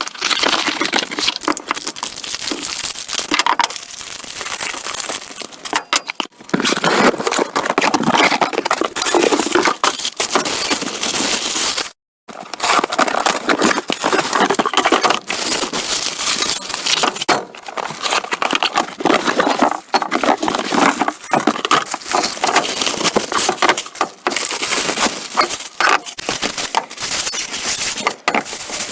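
Dense, rapid crackling, crunching and clinking from tools and parts being handled during a brake pad and disc replacement, a busy run of small knocks that cuts out abruptly for a moment about twelve seconds in.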